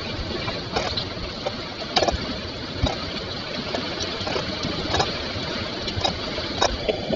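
Heavy rain from a summer thunderstorm falling steadily, with irregular sharp drips or splashes about once or twice a second.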